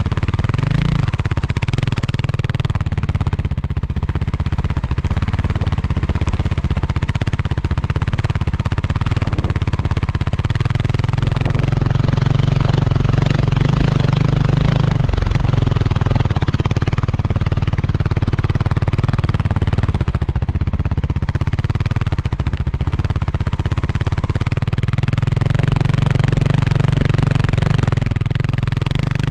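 Kawasaki KLX300R dirt bike's single-cylinder four-stroke engine running at a fairly steady throttle while riding, its pitch dipping and rising slightly now and then.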